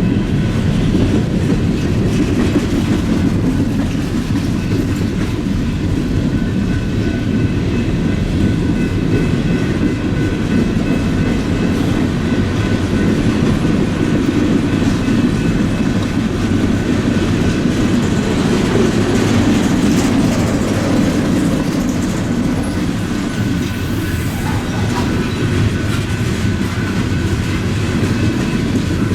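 BNSF freight train passing at a slow crawl, its wheels rumbling and clacking over the rail joints.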